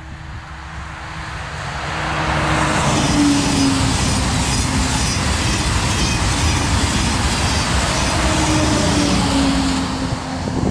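A train passing close by, its wheels rumbling and clattering on the rails with a faint whine from the running gear. It swells over about two seconds, holds loud, and begins to fade near the end.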